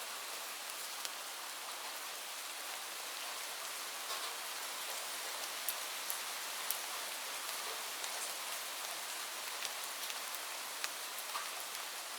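Steady rain falling, an even hiss with scattered sharper drops ticking across it.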